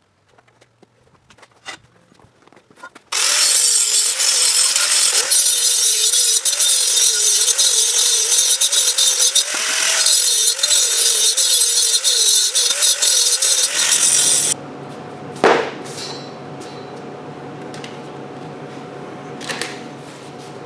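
MIG welder arc running on steel pipe for about eleven seconds, a loud continuous crackling buzz that starts sharply a few seconds in and cuts off at once when the trigger is released, leaving a steady lower hum.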